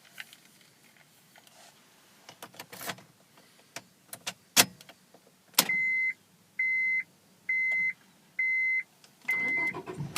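A few scattered clicks and taps, then a sharp click, after which a car's electronic warning beeper sounds a steady single-pitched beep about once a second, five times.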